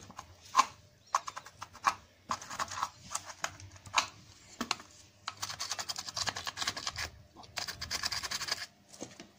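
Sandpaper wrapped over a flat screwdriver scraping the rusted metal battery contacts inside a plastic desk-lamp battery compartment, in several runs of rasping strokes with scattered sharp clicks and taps between them.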